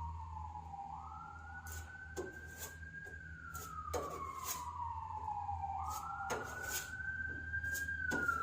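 Police car siren in a slow wail: a quick rise in pitch, then a long slow fall, repeating about every five seconds and growing louder near the end. Scattered sharp clicks and knocks and a steady low hum run underneath.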